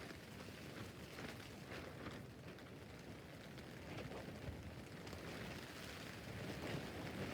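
Rain falling on a tent roof: a steady patter of drops on the fabric with scattered louder individual drop hits.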